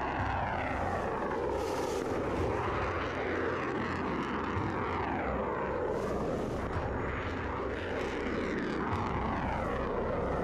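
Aircraft engine noise: a steady jet-like rush with a slow, sweeping whoosh, as of an aircraft passing overhead.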